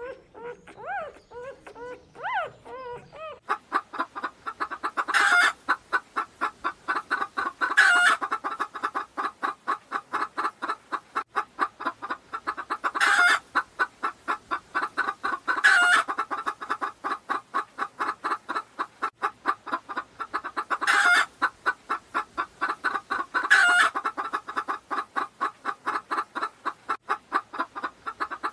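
Domestic fowl clucking in a rapid, steady run of about six clucks a second, with louder, sharper calls every two to three seconds. The first three seconds instead hold high whining calls that glide up and down.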